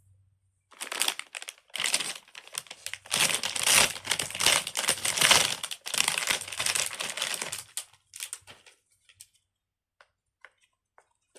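Crinkling and rustling of something being handled, in a dense run of bursts from about a second in until about eight seconds in, then a few faint clicks.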